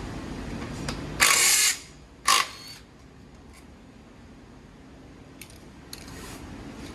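Two short bursts from a workshop power tool during the motorcycle teardown. The first lasts about half a second; the second, about a second later, is shorter and ends in a brief ringing note.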